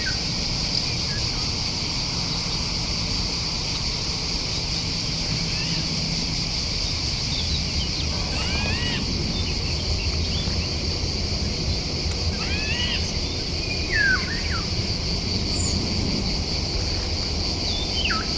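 Small birds calling in short, arching chirps, in several brief clusters from about halfway through, over a steady high-pitched drone and a low rumble.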